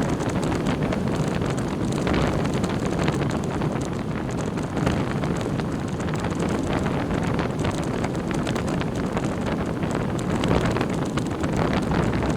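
Steady wind and road noise of a moving vehicle, with wind buffeting the microphone.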